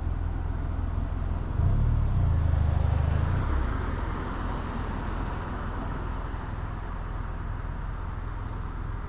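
Motorcycle engine running at low speed with steady road and wind noise; a louder low engine sound swells for about two seconds near the start, then it settles back to a steady hum.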